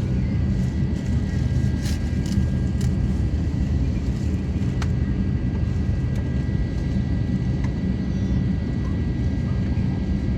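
Cabin noise of an Airbus A350-900 under way: a steady, loud low rumble of its Rolls-Royce Trent XWB engines and airflow, with a thin steady whine above it. A few light clicks or rattles come about two and five seconds in.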